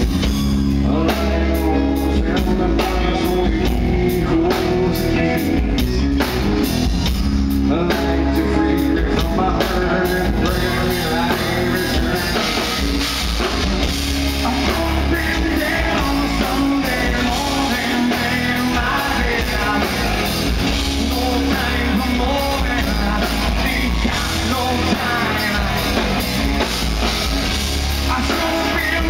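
Rock band playing loud, with a drum kit, guitars and a singing voice; cymbal strokes are quick and regular for the first third or so, then the sound fills out.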